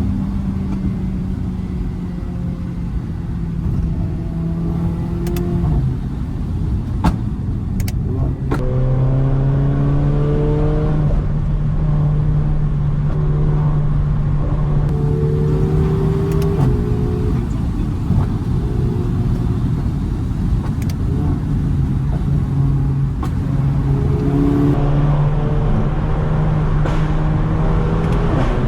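Stage 2 tuned Mercedes-AMG GLA45's turbocharged four-cylinder and exhaust on the move, the engine note holding steady at times and climbing through the gears at others. A few sharp exhaust pops break in, a cluster about seven to eight seconds in and single ones later.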